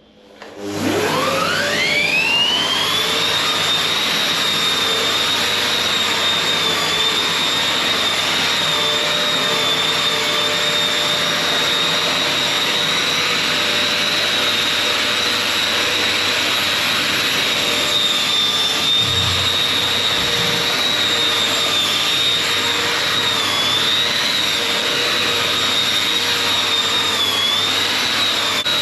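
Long-reach drywall sander with a 225mm head and its dust extractor starting up, the motor whine rising over about two seconds, then running steadily with a high whine over a loud rush of air. The pitch dips slightly a couple of times near the end.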